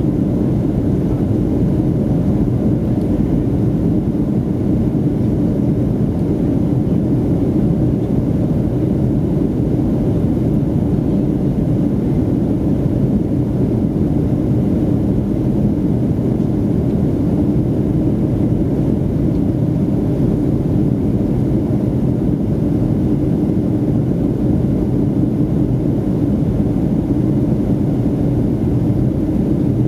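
Steady cabin noise of a Boeing 757-200 in flight: engine and airflow rumble heard from inside the cabin, even and unchanging, with a faint hum running through it.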